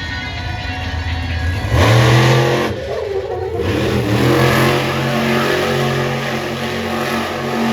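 Monster truck's supercharged alcohol-burning engine revving hard about two seconds in, easing off for about a second, then pulling again under sustained throttle.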